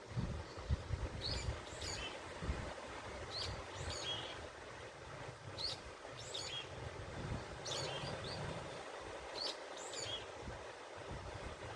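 A small bird calling over and over, a short phrase of high chirping notes roughly every two seconds, over an uneven low rumble and a steady outdoor hiss.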